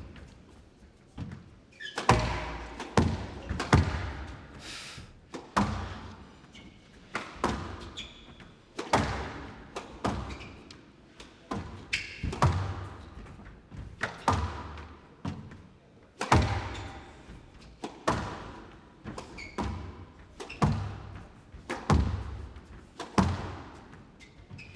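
Squash rally: a long run of sharp ball strikes off the rackets and court walls, about one a second, each ringing out briefly in a large hall.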